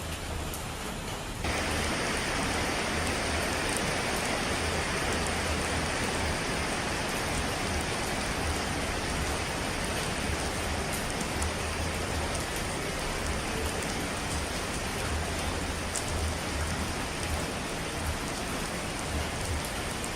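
Steady rushing noise of falling water, like heavy rain, which abruptly becomes louder and brighter about a second and a half in, where the recording changes.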